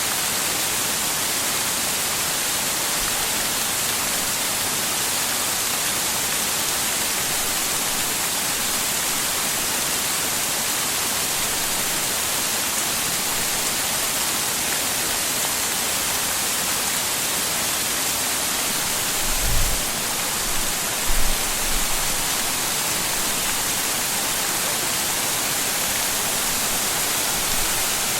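Waterfall: a steady, even rush of falling water. A few brief low thumps come about two-thirds of the way through.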